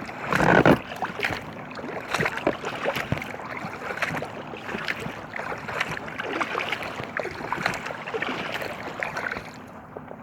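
Kayak paddle strokes dipping and splashing in river water, with many small splashes and drips. A louder splash or rush comes about half a second in, and the sound eases off shortly before the end.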